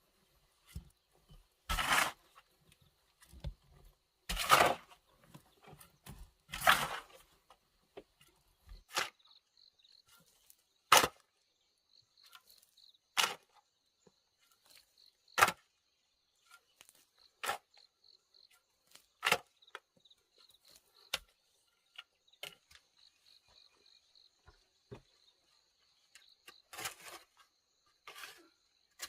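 Sharp knocks, about one every two seconds: the first few are longer and rougher, the later ones short and crisp. A steady high insect trill comes in about a third of the way through.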